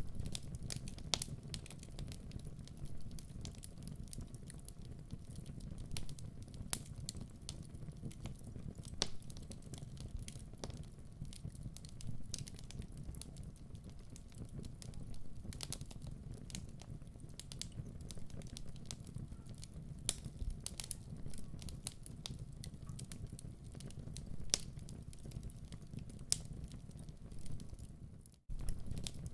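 Wood fire burning in a fireplace: a steady low rumble with scattered crackles and pops. Near the end the sound cuts out for a moment, then resumes.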